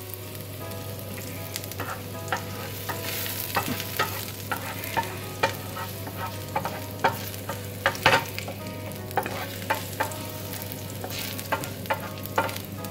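Chopped garlic sizzling in hot oil in a non-stick frying pan and stirred with a wooden spatula, with many irregular sharp pops and taps over a steady hiss. A kitchen extractor fan hums steadily underneath, switching on right at the start.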